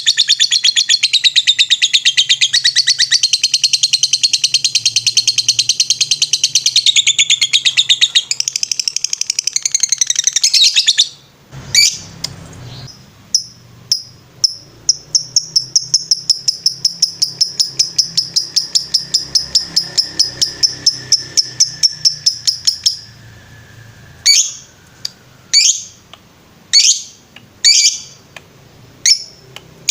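Lovebird singing a long, very fast chattering trill, the continuous 'ngetrek' song, for about eleven seconds. After a short break it gives a steady run of quick chirps, about four or five a second, then a few separate sharp chirps near the end.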